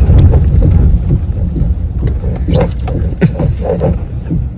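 Pickup truck driving in 4x4, a heavy low rumble that eases after about a second, with scattered short knocks.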